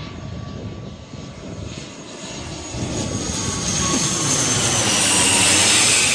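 Airliner on landing approach flying low overhead: engine noise swelling to its loudest near the end, with a high whine that slowly falls in pitch.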